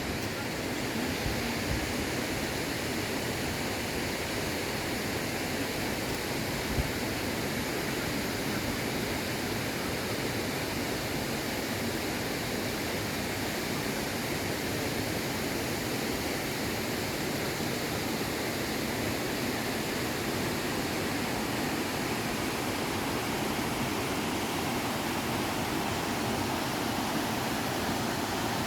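Steady rush of a mountain river, with one brief thump about seven seconds in.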